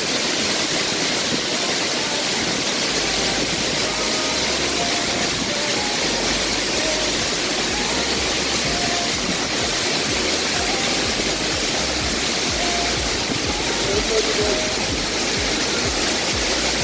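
A waterfall pouring: a steady, dense rush of falling water. Faint background music plays under it.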